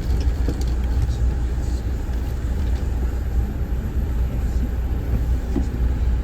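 Steady low rumble of a moving Amtrak passenger train, heard from inside the coach, with a few faint ticks.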